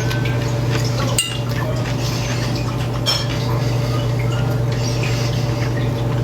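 A metal fork clinking twice against a bowl while salad is eaten, each clink ringing on briefly, over a steady low hum.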